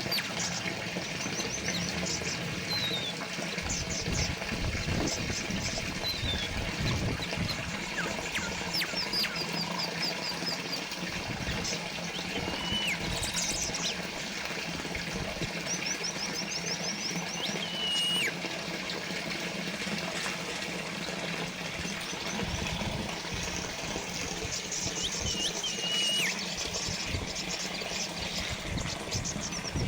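Water from a small fountain trickling and splashing steadily, with small birds chirping now and then over it: quick high trills and short whistled calls.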